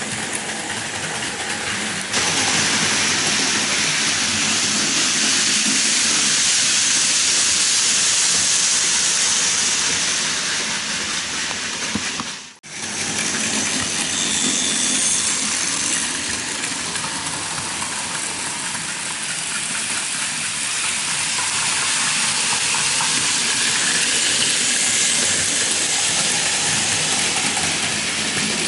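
Toy and model trains running on a layout: a steady whirring rattle of small motors and wheels on track, dropping out for a moment about halfway through.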